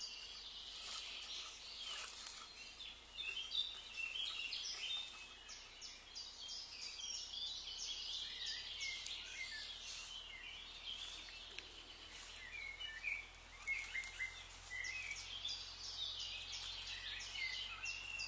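Several small birds singing and calling at once, a dense run of short chirps and trills with no pause.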